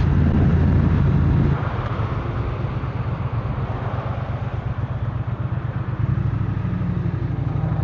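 Triumph Speed Twin 1200's parallel-twin engine running under acceleration on the road, then dropping in loudness about a second and a half in as the throttle eases.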